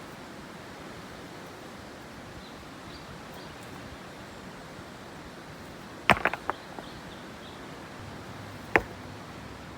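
Rocks being moved and knocked together: a quick run of sharp clacks about six seconds in and one more sharp clack near the end, over a steady background hiss with faint bird chirps.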